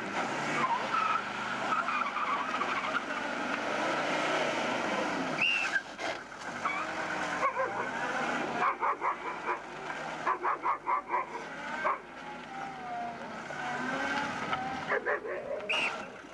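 Mercedes-Benz W123 sedan's engine running at low revs, rising and falling as the car manoeuvres slowly, over a steady outdoor hiss. A quick series of short sharp sounds comes about nine seconds in.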